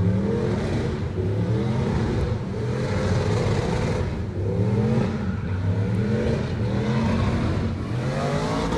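Car engine revving up and down over and over, its pitch rising and falling about once a second.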